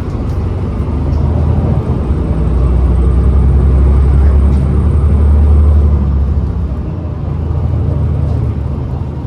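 Cabin sound of a New Flyer XDE40 diesel-electric hybrid bus under way: a low drone that grows louder over the first few seconds, then eases after about six seconds.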